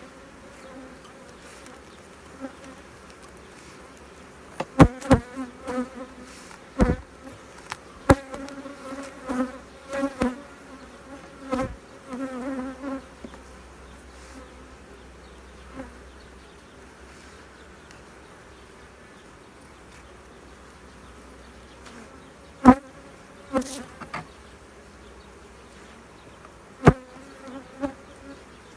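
Honeybees buzzing around an opened hive, the hum swelling and wavering as bees fly close past, from a colony that is somewhat aggressive. Several sharp knocks are scattered through.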